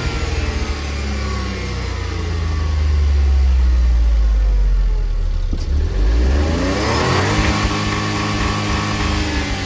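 Smart ForFour's 281M09 (H4B) 0.9-litre turbocharged three-cylinder petrol engine being revved on a running check: the revs fall away at the start, run low and heavy for a few seconds, then rise again about seven seconds in and are held up.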